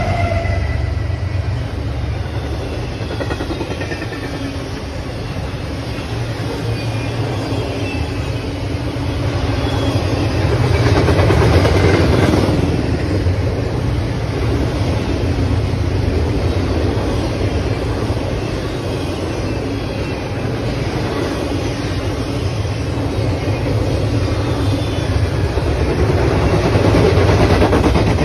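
Double-stack intermodal freight cars rolling past on the rails: a steady rumble of steel wheels on track that grows louder around the middle and again near the end.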